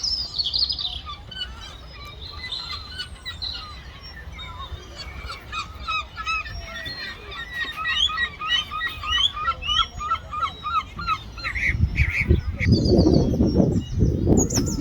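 Gulls calling: many short rising calls, with a quick run of evenly repeated calls in the middle. Near the end comes a louder, lower, harsher burst of sound.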